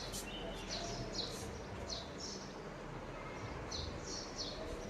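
A small bird chirping in short, high calls, repeated every half second or so with a pause in the middle, over steady low outdoor background noise.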